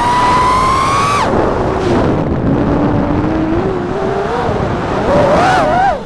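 FPV quadcopter's brushless motors whining with the throttle: the pitch climbs slightly, drops sharply about a second in, stays low and wavers, then climbs again and warbles quickly up and down near the end.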